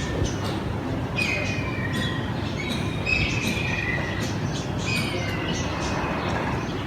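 Birds calling: short, high, slightly falling calls repeated about once a second over a steady background din.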